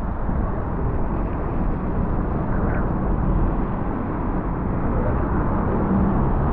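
Heavy rain falling in a town street: a steady hiss with a low rumble underneath.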